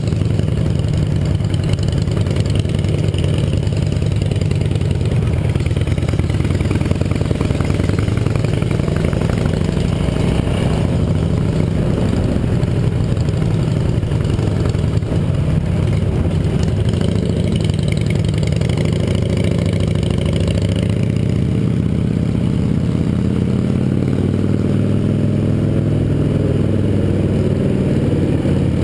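Yamaha XT 660R's single-cylinder four-stroke engine running under way, its pitch rising and falling with the throttle.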